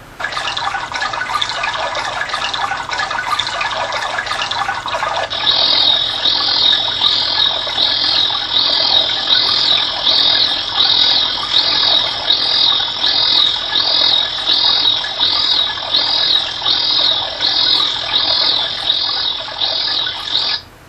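Natural-sound auditory stimulus for a steady-state response test, with a fast flutter running through it. It opens with about five seconds of rushing, water-like noise. Then a high chirping call repeats a little more than once a second and cuts off abruptly near the end.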